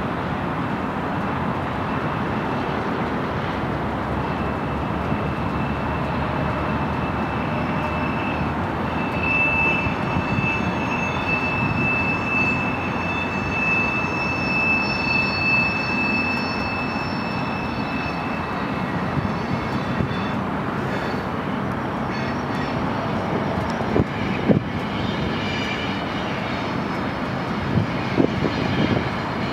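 Freight cars of a manifest train rolling past with a steady rumble. A high, steady squeal rides over it from about four seconds in until nearly twenty seconds, and a few sharp knocks come near the end.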